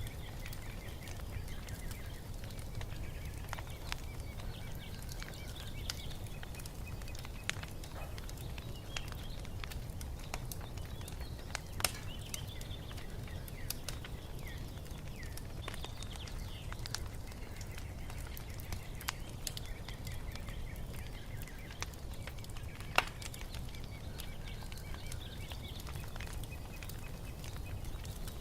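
Wood fire crackling with scattered small snaps and two sharper pops over a low steady rumble, while birds chirp faintly in the background.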